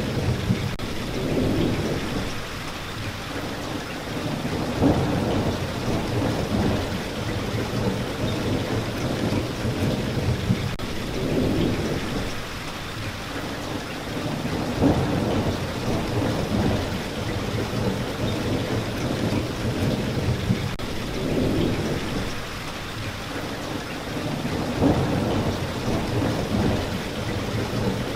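Steady rain, with low rumbles swelling and fading every few seconds.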